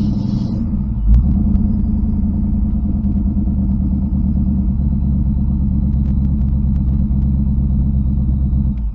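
1986 Ford Mustang engine, running on a newly fitted MSD 6A ignition box with Holley Terminator X fuel injection, idling steadily with a brief swell about a second in, then shut off abruptly just before the end.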